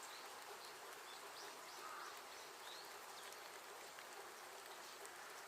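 Faint, steady hiss of water from a pond swollen by heavy typhoon rain, with a few faint short bird chirps over it.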